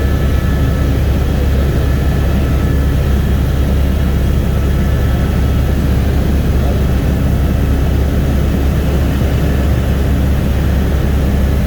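Helicopter engine and rotor drone, loud and steady without a break.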